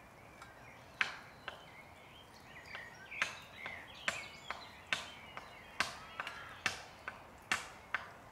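Hammer blows striking steadily, a bit faster than one a second, each with a short ringing tail: a neighbour hammering while building on a hut.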